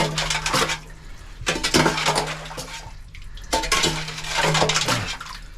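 Metal spade scraping and scooping through wet, stony silt, in three strokes about two seconds apart, metal grating on stones with each stroke.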